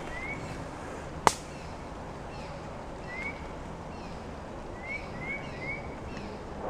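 A small bird calling in short, rising chirps, several times, some in quick pairs and threes, over a steady outdoor hiss. A single sharp click about a second in is the loudest sound.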